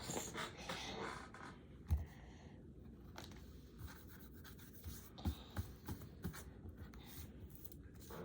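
Coloured pencil scratching and rubbing on paper as a drawing is coloured in, with a soft knock about two seconds in.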